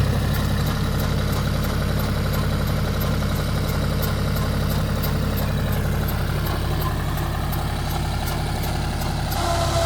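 Mahindra 275 DI TU tractor's three-cylinder diesel engine running steadily at constant speed, with a faint, even ticking about twice a second.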